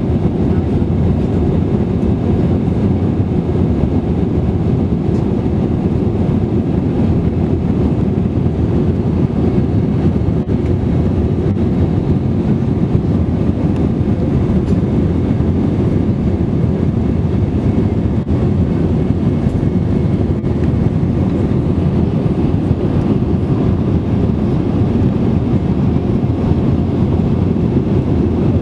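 Airbus A320-200 cabin noise in flight: a steady, loud, low rush of engine and airflow noise.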